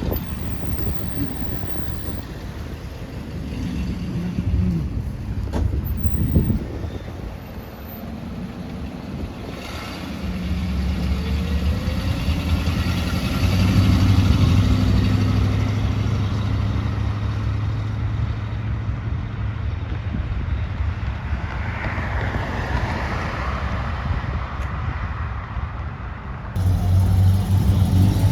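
A car engine running at a steady low idle, coming in about ten seconds in and getting louder a few seconds later, with an abrupt change in the sound near the end.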